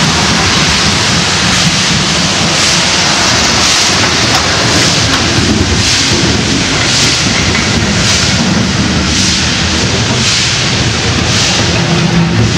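Passenger coaches of a steam-hauled train rolling past close by: a loud, steady rumble and hiss of wheels on rails, with the hiss swelling about once a second.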